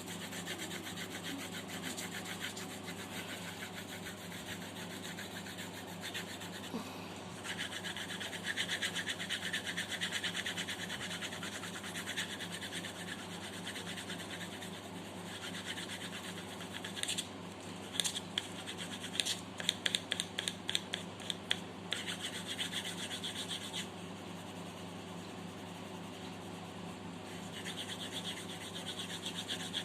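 Pencil scratching on paper in rapid back-and-forth shading strokes, with a run of sharper, separate strokes about two-thirds of the way through. A steady low hum runs underneath.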